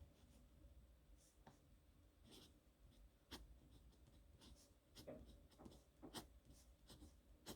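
Faint scratching of a pen on paper: a run of short, separate writing strokes at an uneven pace.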